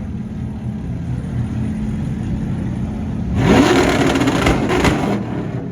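Truck engine running at a steady rumble, then revving up sharply a little over three seconds in, with a loud rush of noise for about two seconds before it eases off.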